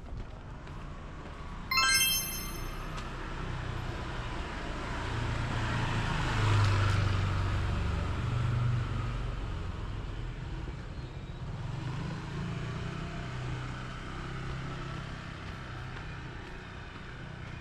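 Street ambience with a motor vehicle passing, its low engine hum and noise swelling to a peak about six to seven seconds in, then fading. A brief high ringing tone about two seconds in.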